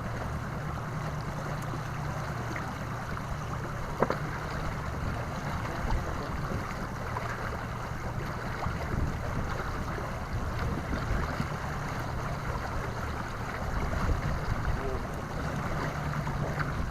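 Wind buffeting a pontoon boat with water lapping at the hull: a steady rush with fluttering low rumble, and one sharp knock about four seconds in.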